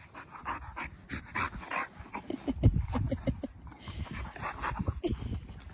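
A dog making a string of short, irregular sounds, some briefly pitched, mixed with low knocks.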